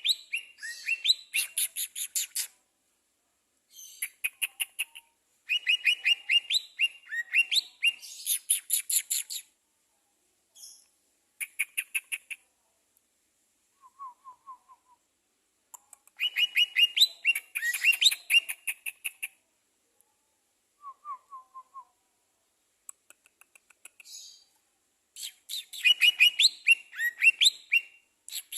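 A songbird singing in phrases of rapid, high chirps and trills, each lasting a few seconds with short pauses between; twice in the middle, a brief lower trill.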